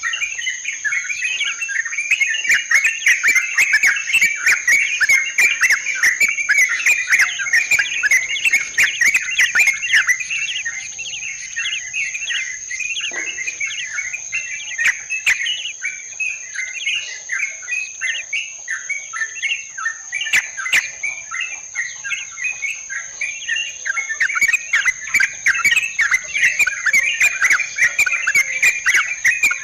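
Yellow-vented bulbuls (trucukan) chattering in a dense, continuous flock chorus, a little quieter through the middle. A steady high-pitched whine runs under the calls throughout.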